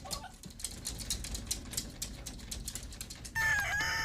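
Quick irregular clicking and tapping, then, a little over three seconds in, an animal's loud, long, held call lasting about a second.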